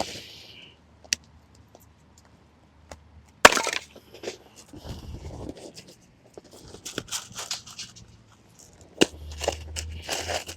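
Firewood being snapped and broken by hand: a sharp crack about three and a half seconds in and another near nine seconds, with crackling and rustling of the wood between.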